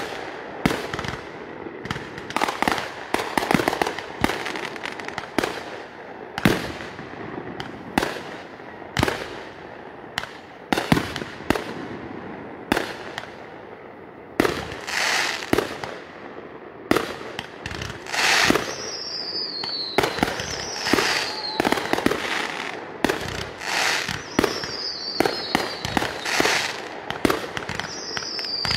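Aerial fireworks shells bursting one after another, a run of sharp bangs at uneven spacing. In the later part, four short whistles falling in pitch sound among the bangs.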